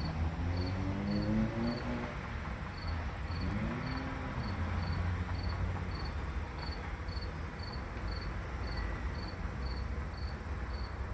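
A cricket chirping steadily, about two short high chirps a second, over a low background hum.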